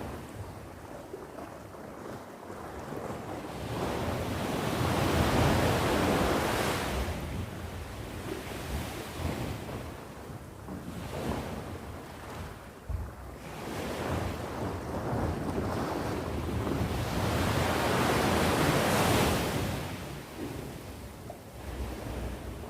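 Ocean waves breaking and washing on the shore, surging and ebbing in slow swells, with two big waves about five seconds in and near the end, and some wind on the microphone.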